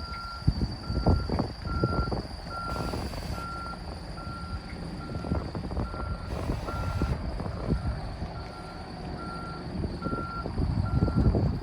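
Scania CN94UB intercity bus reversing: its reverse alarm beeps steadily about once a second over the low running of the diesel engine, with a few knocks and two brief hisses of air.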